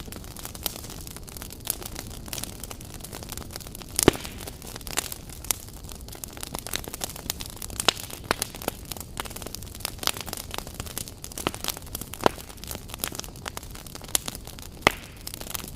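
Wood fire burning, with a steady hiss and frequent irregular crackles and pops, a louder pop about four seconds in and another near the end.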